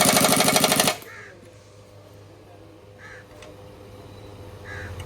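Pneumatic impact wrench rattling in one burst of about a second on a nut or bolt of the steering assembly. Then crows caw three times, a couple of seconds apart.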